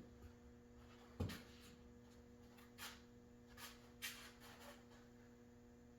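Near silence with quiet handling noises: a soft thump about a second in, then a few faint clicks and rustles, over a steady low electrical hum.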